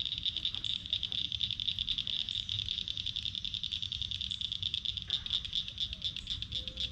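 Steady chorus of calling animals by the water, a high-pitched trill pulsing very fast, with a low rumble underneath.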